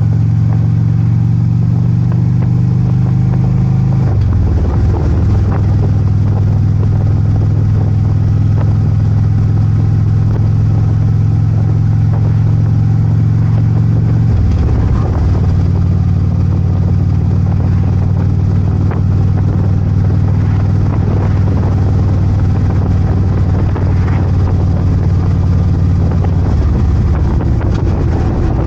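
Harley-Davidson Ultra Limited's V-twin engine running steadily on the move, its note shifting in pitch three times, about 4, 14 and 26 seconds in.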